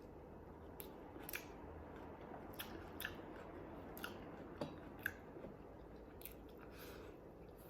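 A person chewing and eating food, with about nine short, crisp clicks and crunches at uneven intervals.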